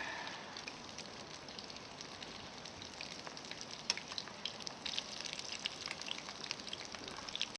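Fried shrimp and squid rings cooking in hot oil: a steady sizzle with scattered small pops.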